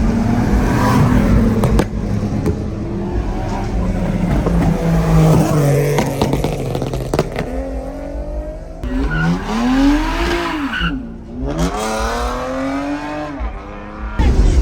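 A car engine running at high revs for several seconds, then revved up and down repeatedly in the second half.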